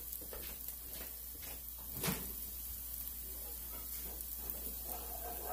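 Shrimp and vegetables sizzling and crackling steadily in olive oil in a hot skillet, with a single knock about two seconds in.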